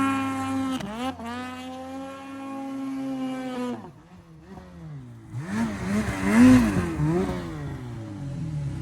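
Snowmobile engine at high revs, held steady for a few seconds and then dropping off, then revved up and down in quick throttle blips over a hiss of snow as the sled rides past.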